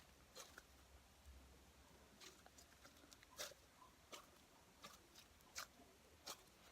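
Slime being handled and squeezed: faint, scattered small clicks and pops, about one every second, with near silence between them.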